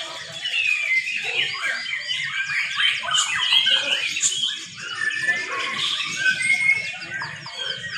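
Several young white-rumped shamas singing at once, a dense jumble of overlapping quick whistles, warbles and chirps.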